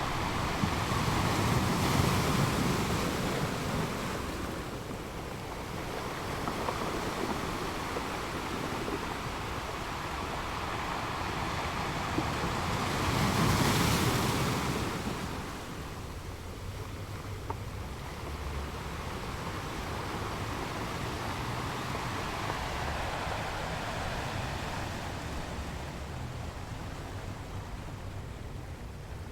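Outdoor wind and water noise, a steady rushing that swells louder about two seconds in and again around fourteen seconds in.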